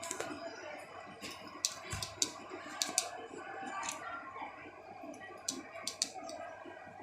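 A series of irregular sharp clicks and taps, about a dozen in all, some coming in quick pairs, over a faint background.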